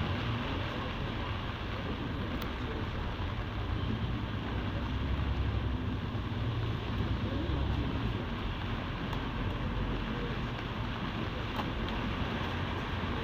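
Volvo B9TL double-decker bus under way, heard from inside: a steady low rumble from its six-cylinder diesel engine mixed with road and cabin noise, swelling and easing a little as it drives.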